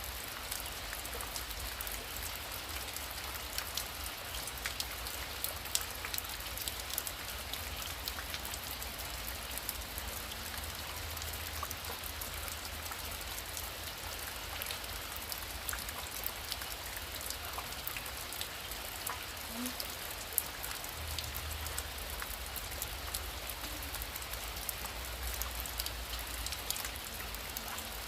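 Heavy rain falling steadily, with many sharp individual drop strikes over an even hiss and a low rumble underneath.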